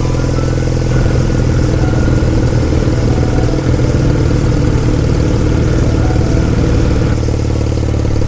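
Kawasaki W800's air-cooled parallel-twin engine running steadily through a Yamato aftermarket muffler, with a deep, even exhaust note.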